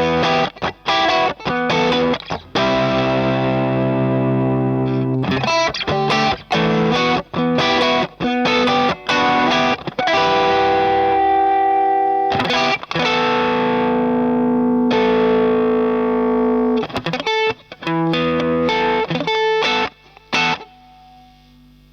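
Electric guitar played through a Madbean Drunken Dragon overdrive pedal, a clone of the Lovepedal Eternity, with a distorted tone: short choppy chords alternating with chords left to ring out. The playing stops a little before the end.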